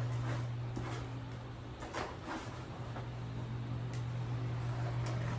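Steady low hum with a few faint clicks and rustles, as of parts and their packaging being handled.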